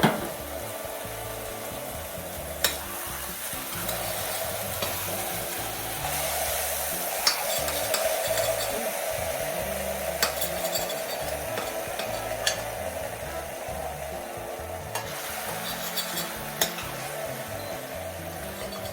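Food sizzling in a frying pan, with a handful of separate light clicks from a utensil against the pan.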